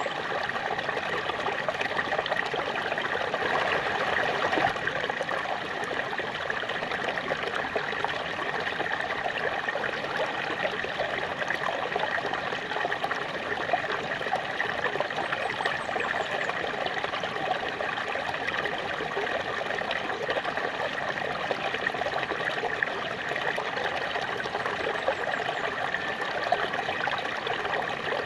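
Small waterfall, water splashing and rushing steadily without a break.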